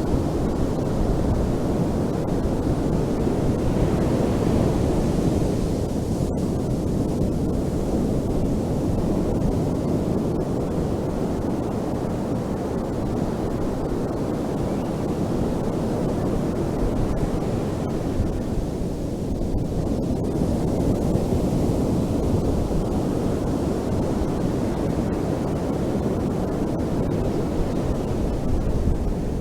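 Ocean surf washing on a beach: a continuous, heavy, low wash of waves that swells and eases slowly over several seconds.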